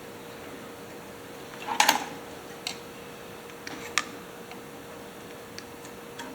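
A few sharp clicks and taps of small hand tools and metal parts being handled, with a short cluster of knocks about two seconds in, over a faint steady hum.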